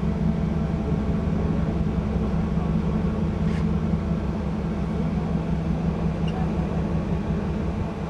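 Ship's engines running with a steady low drone.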